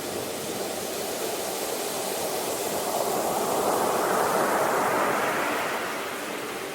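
Sea waves: a wave swells in and breaks, loudest about four seconds in, then washes back and fades.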